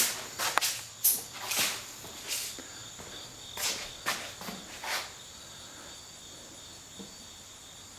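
About ten short rustling, scraping handling sounds spread over the first five seconds, then quieter, over a faint steady high-pitched whine.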